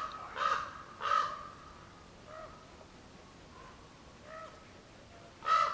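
Crows cawing: three loud, harsh caws in quick succession at the start, a few fainter caws in the middle, then another loud caw near the end.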